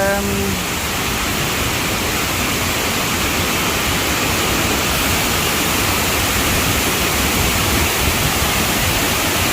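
A strong waterfall rushing steadily, an even roar of falling water.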